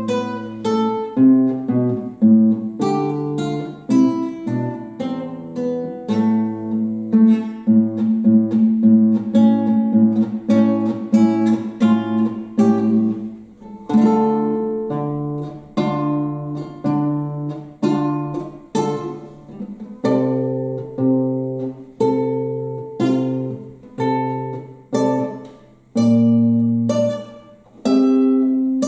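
Solo classical guitar playing a folk-song arrangement: plucked melody over sustained bass notes, with many separately picked notes.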